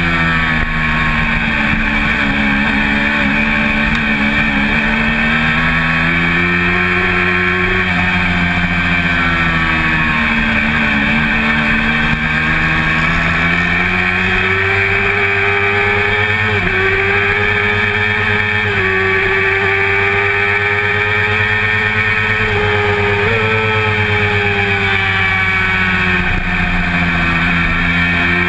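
1988 Honda CBR400RR's inline-four engine at racing revs, heard from on board the bike. The pitch drops away and climbs back several times as the rider slows for corners and accelerates out of them, with small steps at the gear changes.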